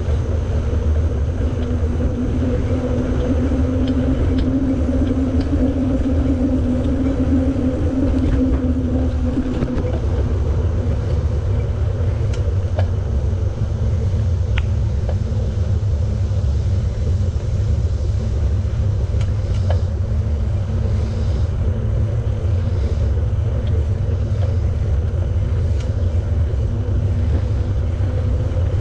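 Steady low rumble of a bicycle ride: tyres rolling on the path and wind on the microphone. A steady hum runs through the first third and stops about ten seconds in.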